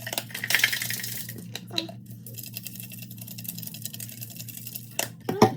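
Kitchen handling sounds: a run of rapid rattles and clicks in the first two seconds, then a few sharp clinks near the end, the loudest just before it stops. A steady low hum runs underneath.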